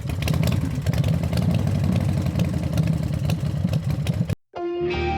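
Vehicle engine idling with a rough, clattering running sound that cuts off abruptly about four seconds in; guitar music starts half a second later.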